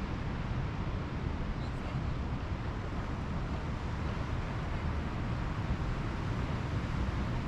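Steady beach ambience of Pacific Ocean surf, with a low rumble of wind on the microphone.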